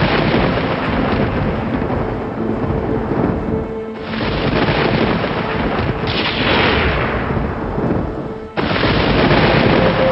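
Thunder rumbling heavily, with new rolls breaking in suddenly about four seconds in and again near the end, and a falling rush about six seconds in. Soft sustained music tones lie underneath.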